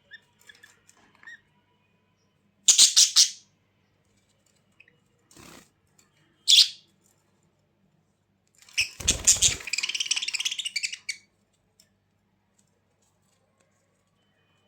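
A bird giving harsh squawking calls in three bouts: a short one about three seconds in, a brief one a little after halfway, and a longer rapid series that begins with a low thump.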